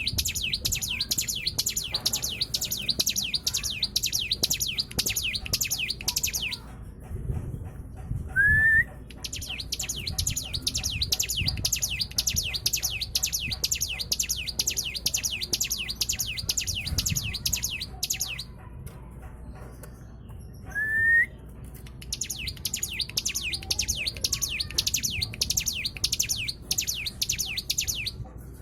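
Cigun songbird singing: long bouts of rapid, high chirping notes, about six a second, broken by pauses in which a single short rising whistle sounds twice. This is a 'pancingan' lure song, played to trigger caged birds into singing.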